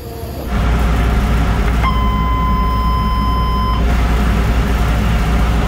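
Taiwan Railway EMU1200 (rebuilt EMU200) door warning buzzer sounding one long steady tone of about two seconds, the signal given before the pneumatic doors open or close. Under it, a steady low train rumble sets in about half a second in.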